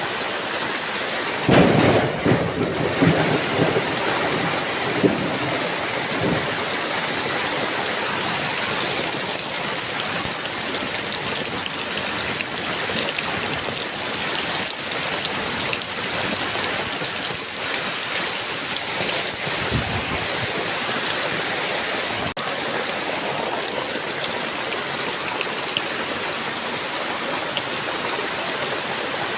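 Heavy rain falling steadily. A loud thunderclap breaks about a second and a half in and rumbles on for several seconds, with a fainter roll of thunder about two-thirds of the way through.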